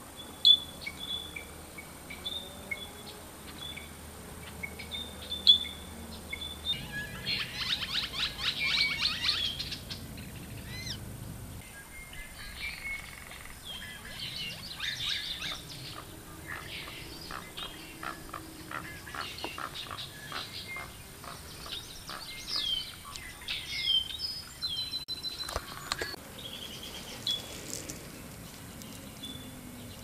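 Birds chirping and calling: repeated short high chirps, with bursts of rapid chattering trills about eight and fifteen seconds in. Two sharp clicks stand out in the first six seconds.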